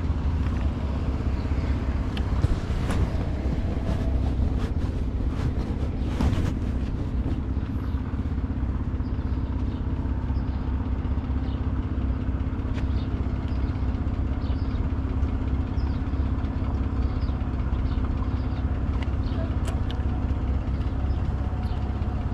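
Downtown street traffic heard from a moving bicycle: a steady low rumble with a constant hum, and a few sharp clicks, the strongest about six seconds in.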